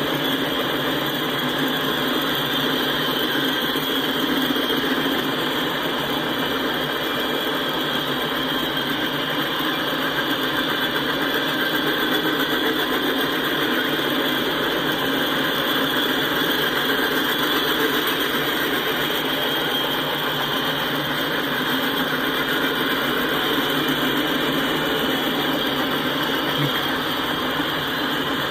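Freight train cars rolling past at speed: a steady, unbroken noise of steel wheels running on the rails.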